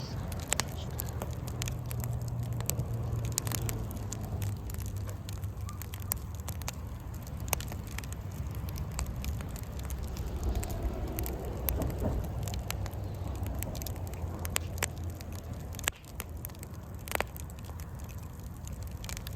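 Wood campfire crackling, with sharp pops scattered throughout, over a steady low rumble.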